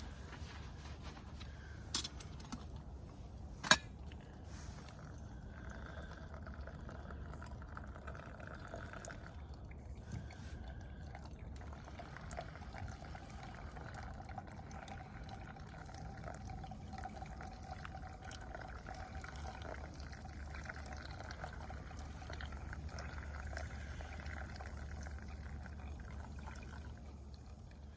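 Water pouring in a slow, steady stream for most of the stretch, after two sharp clicks about two and four seconds in.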